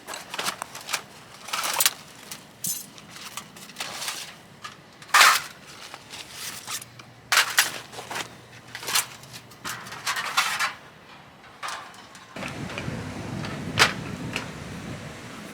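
Irregular rustles, scrapes and knocks, then a steady low rumble starting about twelve seconds in, with one sharp click near the end.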